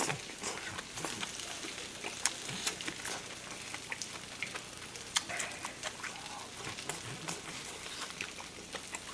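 Wet chewing and sharp mouth clicks of a person eating grilled pork belly and kimchi close to the microphone. Under them runs a light crackling sizzle from the grill pan.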